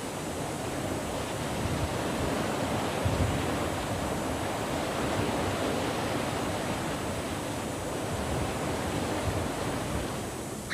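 Atlantic surf washing against a limestone shore, a steady rushing of waves that swells a little about a second in.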